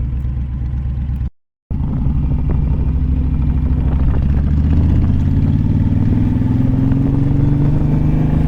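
Motorcycle engine running under the rider, cut off by a brief moment of dead silence about a second in, then pulling steadily with its pitch slowly rising as the bike gathers speed.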